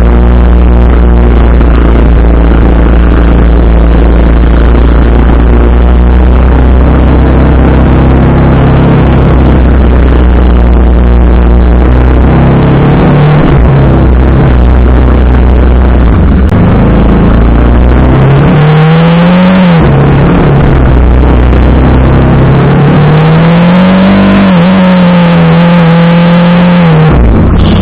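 TVS Apache RR310's single-cylinder engine running while the bike is ridden, over a heavy low rumble in the first half. Its pitch rises and falls as the rider opens and closes the throttle, about two-thirds through and again near the end.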